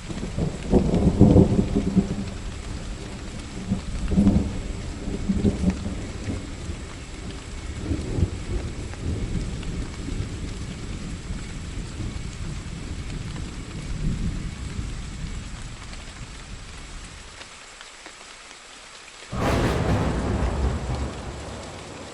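Thunderstorm: steady rain with a long rolling thunder rumble that starts right away, swells several times and slowly fades. About nineteen seconds in, a sudden, sharper thunderclap breaks and rumbles for a couple of seconds.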